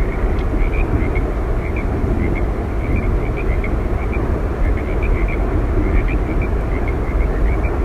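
Steady rushing roar of Yosemite Falls, with many faint, short, high chirps scattered over it.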